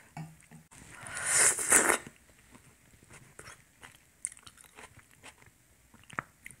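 A person chewing food between bites, with soft mouth clicks and smacks, and a louder rushing sound about a second in that lasts about a second.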